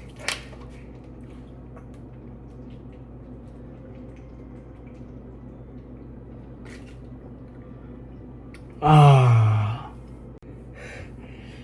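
A man's loud voiced exhale, about a second long and falling in pitch, about nine seconds in, with a few breaths after it. Before that there is a low steady room hum and a sharp click just after the start.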